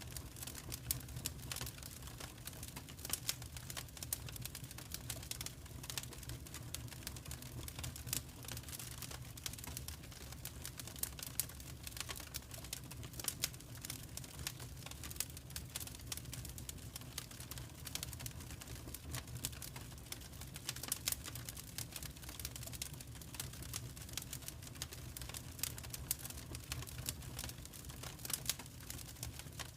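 Wood fire crackling in a fireplace: dense, irregular small snaps and a few louder pops over a steady low rumble of the burning fire.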